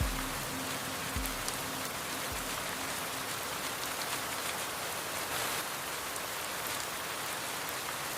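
Steady rain falling, an even hiss. Three low thuds about a second apart in the first few seconds.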